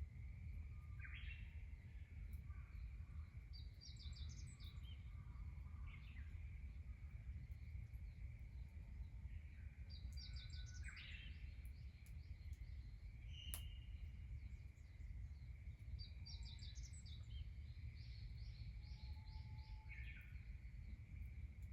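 Faint rural outdoor ambience: wild birds calling in short repeated note series and chirps several times, over a steady low rumble and a steady high thin tone. There is one sharp click about halfway through.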